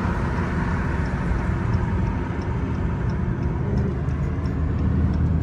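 Steady engine and road rumble of a car cruising at highway speed, heard from inside the cabin, with faint light ticks now and then.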